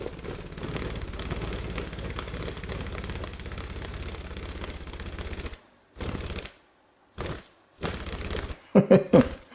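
Budgerigar flapping its wings hard while perched, a rapid fluttering whirr. One long bout of about five seconds is followed by three shorter bursts.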